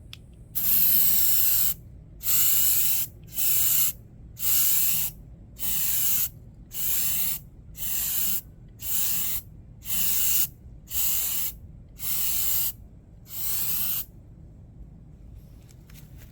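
Aerosol can spraying primer in about a dozen short hissing passes, each half a second to a second long with brief pauses between, stopping about two seconds before the end.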